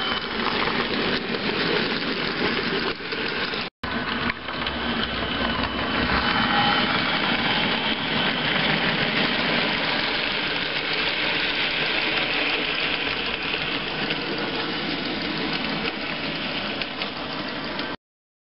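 HO-scale model train running on the layout, a steady mechanical running noise of the small motor and wheels on the track. It drops out briefly just under four seconds in and cuts off suddenly near the end.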